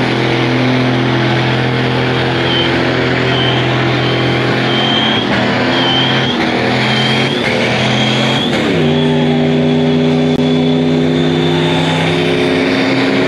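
A car engine held at high, steady revs during a burnout, with a dense hiss over it. About two-thirds of the way through, the revs dip briefly and then settle back to a steady pitch.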